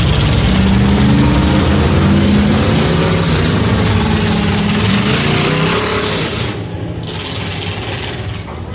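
Several race trucks' engines revving hard together as the field launches off the start, easing off a little about six seconds in.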